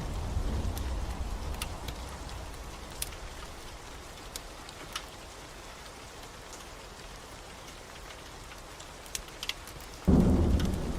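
Steady rain with scattered sharp crackles of a wood fire. A low rumble of thunder dies away over the first few seconds, and a loud rumble of thunder breaks in suddenly about ten seconds in.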